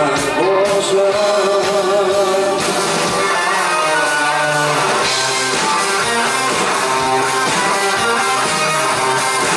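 Rock band playing live, with guitar to the fore.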